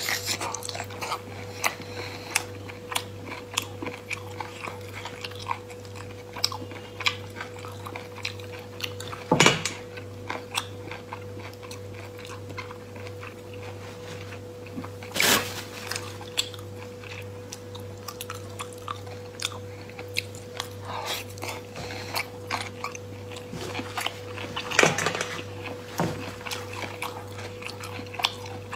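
Close-up chewing and lip smacking of cooked sea snail meat, with many small wet clicks throughout and three louder mouth sounds about nine, fifteen and twenty-five seconds in. A steady low hum runs underneath.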